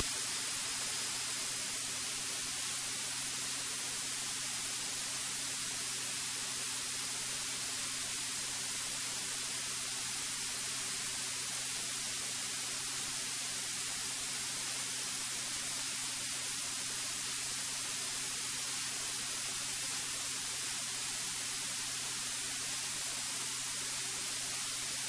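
Steady hiss from a cockpit intercom audio feed between transmissions, with a faint, steady low hum under it.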